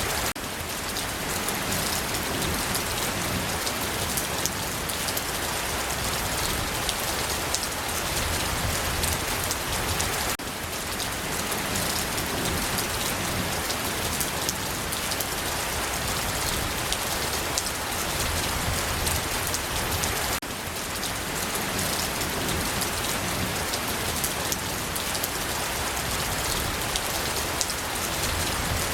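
Steady rain falling, an even hiss of many drops, with a slight dip in the sound about every ten seconds.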